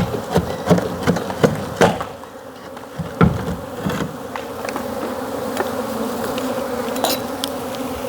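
Honeybees buzzing in a steady drone around their hive. Over it come a run of sharp knocks and clicks during the first four seconds and a few more about seven seconds in.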